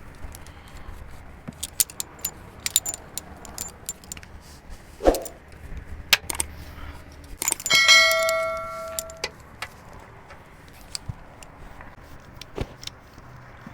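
Metal tools and parts clinking and knocking against each other. About five seconds in comes a dull thump, and a little later a piece of metal is struck and rings clearly for over a second as it dies away.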